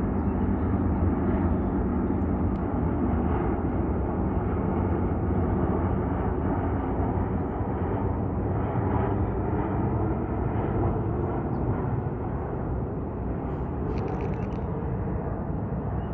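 Jet aircraft engine noise passing over: a steady low rumble that slowly fades.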